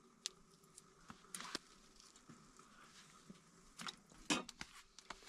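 Knife cutting raw lamb T-bones: faint, scattered clicks and short squishy scrapes as the bone and gristle are cut out, with the loudest cuts about a second and a half in and again around four seconds in.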